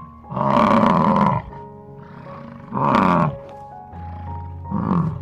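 European bison bellowing three times, the first call the longest, over steady background music.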